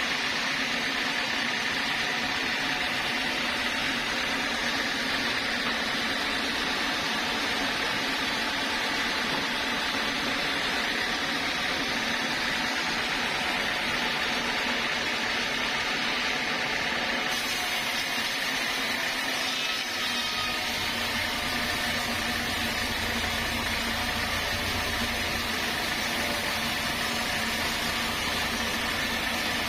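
Sawmill saw running at a steady level, an even mechanical noise. About two-thirds of the way through, the sound fills out with more low rumble.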